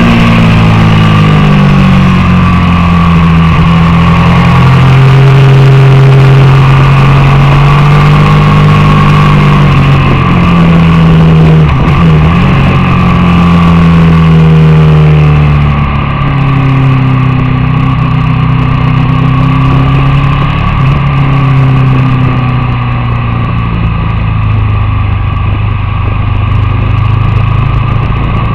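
Racing motorcycle engine at high revs, its pitch repeatedly climbing and then dropping as it shifts gears and rolls on and off the throttle, with a steady rush of wind and road noise.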